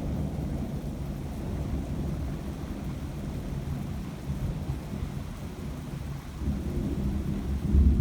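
Thunder rumbling low and continuously, swelling to a loud peak near the end.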